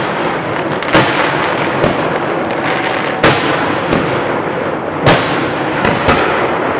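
Fireworks display: aerial shells bursting with sharp booms, three loud ones about two seconds apart, with softer pops in between over a steady noisy background.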